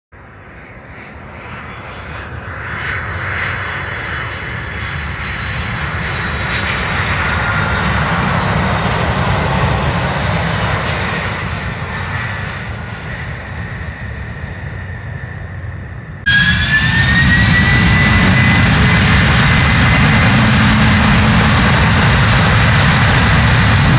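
Airliner engines passing close by, swelling to a peak about ten seconds in and then fading. The sound then cuts abruptly to a louder, steady airliner engine noise with a high whine that rises slightly in pitch.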